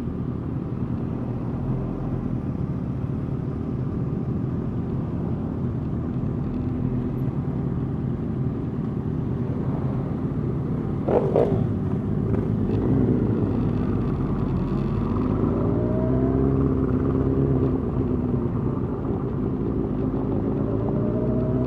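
Motorcycle engines running steadily at low parade speed. About eleven seconds in there is a short, sharp rev, and after that the engine pitch rises and falls several times as throttle is opened and eased.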